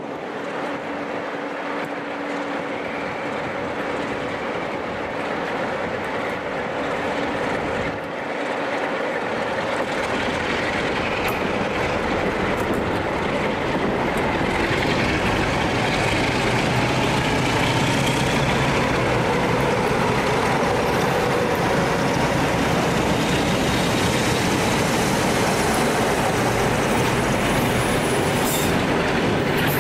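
A train drawing closer. Its running noise grows louder over the first half and then holds steady, with a high wheel squeal near the end.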